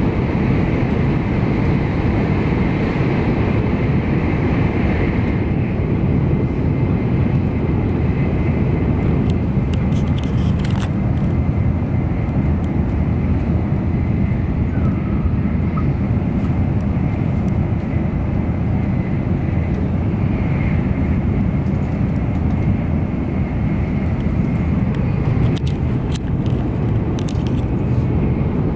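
Steady low rumble of an N700 series Shinkansen running at high speed, heard inside the passenger cabin.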